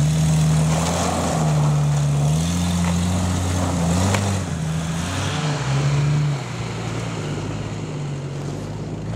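Lifted Jeep Cherokee XJ's engine revving hard under load in deep snow, its pitch rising and falling for about six seconds, then dropping to a quieter, steadier engine note.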